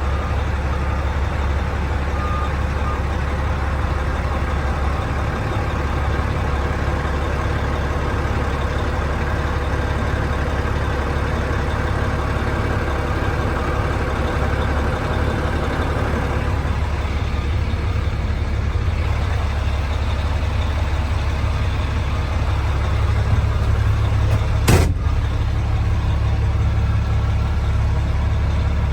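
Heavy truck's Caterpillar diesel engine idling steadily, with a single sharp knock near the end.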